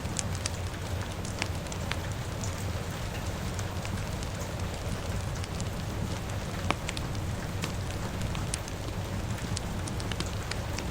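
Rain falling steadily mixed with a crackling fire: a low, even rush with scattered sharp pops throughout, one louder pop a little before seven seconds in.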